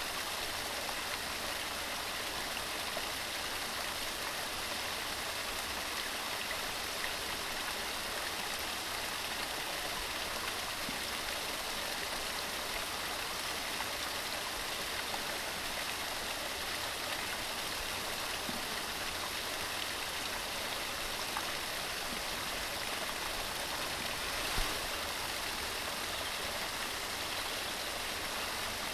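Mountain stream running steadily over rocks, an even rush of water, with one brief splash or knock about 24 seconds in.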